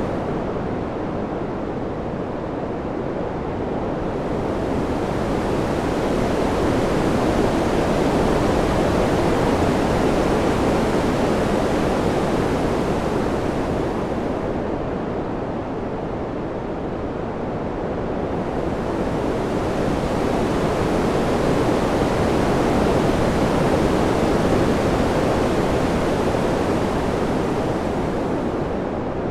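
Steady wind ambience, an even rushing noise that slowly swells and eases twice, the high hiss falling away in each lull.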